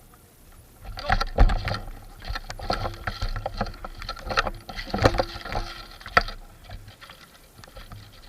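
Footsteps and rustling through dry forest undergrowth, an irregular run of crunches and snaps that starts about a second in and stops after about six seconds.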